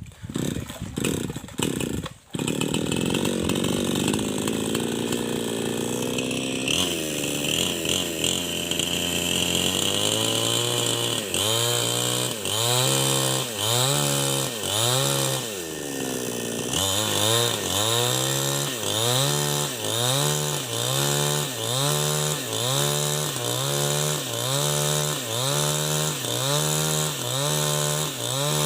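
New West 788 chainsaw cutting lengthwise through a log. After a few brief breaks in the first couple of seconds it runs steadily, then from about seven seconds on its engine speed rises and falls regularly, about once a second, as it works under load in the cut.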